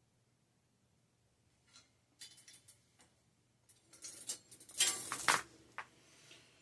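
Metal tools and bike parts clinking and rattling as they are handled, in scattered clicks that start about two seconds in and are loudest a little before the end.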